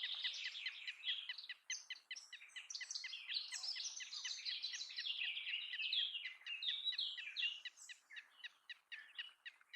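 Birds calling: a dense, continuous run of rapid, sharp chirps from several birds at once, thinning out near the end.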